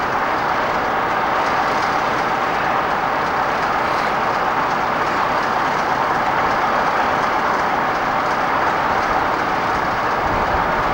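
Railway train running past close by, a steady rushing rumble with no break.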